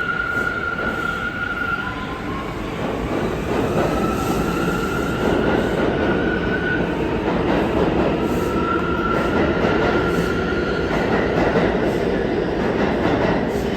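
R179 subway train running, a steady rumble of wheels on rail with high whining tones that fade out and come back, some rising in pitch.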